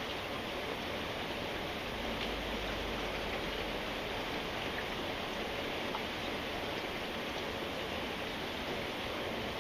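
Steady rain falling, an even hiss with a few faint drop ticks and no let-up.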